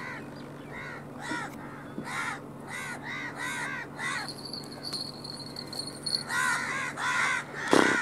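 A bird's harsh, repeated calls, two to three a second, stopping for about two seconds midway while a faint steady high whistle sounds, then starting again.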